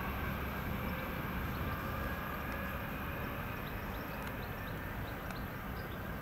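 Steady low rumble of a red ÖBB Talent electric multiple unit coming slowly into the station in the distance, with faint short high chirps over it.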